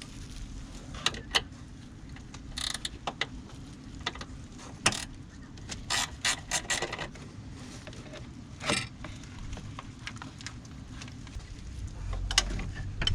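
Metal hand tools clicking and clinking during mechanical work on a van, with a quick run of sharp metallic strokes about halfway through. A low rumble comes in near the end.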